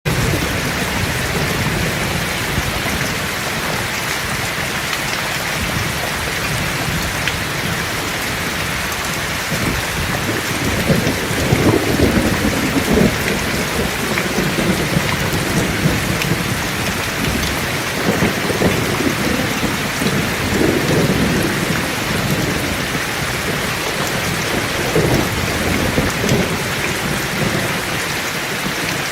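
Heavy rain falling steadily, with thunder rumbling several times, loudest about eleven to thirteen seconds in.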